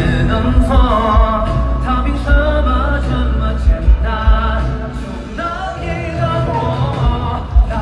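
Live pop song played loud by a band, with singing and a regular kick-drum beat.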